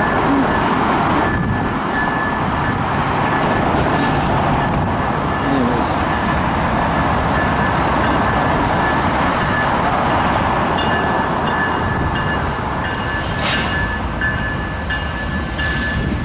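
GE ET44AC diesel locomotive running as it moves its train, a loud, steady rumble and rush of engine and rolling stock. A thin high tone runs through it.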